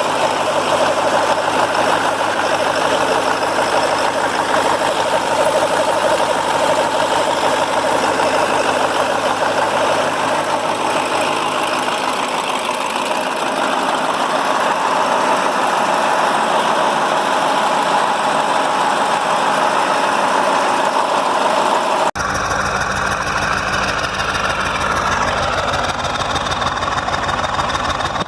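KAMAZ 740.51-320 V8 turbodiesel engine running steadily at idle. About two-thirds of the way through the sound changes suddenly to a deeper, heavier rumble.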